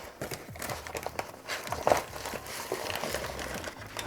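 Ration food packets rustling and crinkling as they are handled, with irregular sharper crackles; the loudest crackle comes about two seconds in.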